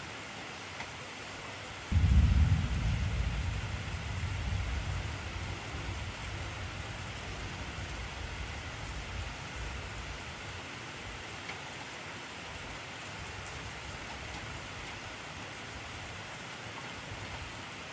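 Steady hiss of heavy rain. About two seconds in, a sudden low rumble of thunder breaks in and dies away over several seconds.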